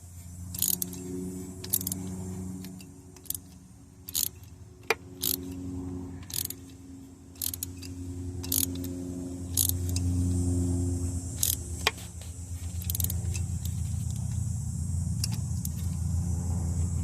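Sharp metallic clicks and clinks of a socket wrench with a swivel working a spark plug out of a Dodge 318 V8's cylinder head, coming singly and irregularly. Underneath runs a low hum from a running vehicle, louder in the second half.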